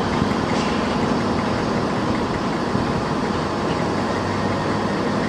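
A diesel passenger train's engine idling steadily at a station platform, a constant low hum.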